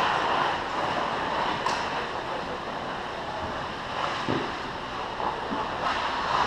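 Ice hockey rink ambience during play: a steady wash of crowd and skating noise, with a few brief sharp sounds on the ice.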